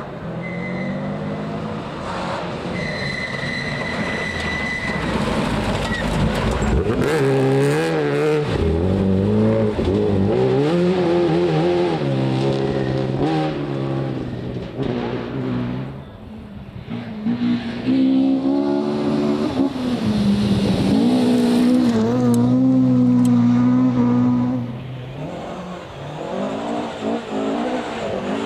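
Rally car engine revving hard, its pitch climbing and dropping over and over as it works through the gears, with a brief dip about halfway through and a long held pull near the end.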